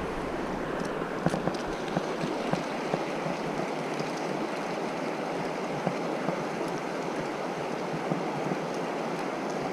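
Mountain river water rushing past with a steady, even noise, with a few faint clicks over it.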